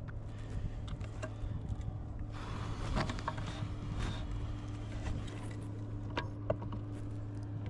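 Gear-handling noise in a kayak: scattered clicks and knocks, a cluster of them about three seconds in, over a steady low hum.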